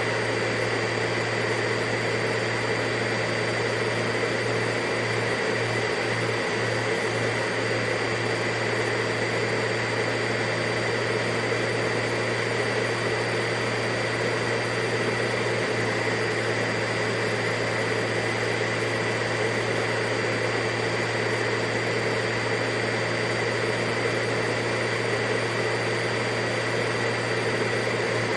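Vacuum cleaner motor running steadily, a constant whine over rushing air with no change in speed.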